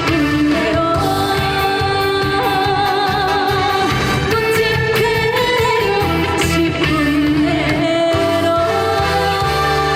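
A trot song: a woman sings held, wavering notes over a backing track with a steady bass line.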